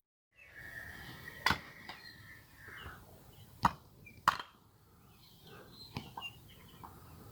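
Axe chopping firewood into kindling: three sharp chops, the last two close together, then a lighter knock near the end.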